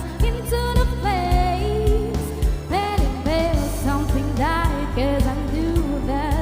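A woman singing a pop ballad over a karaoke backing track with bass and a steady drum beat. Her voice holds notes with vibrato.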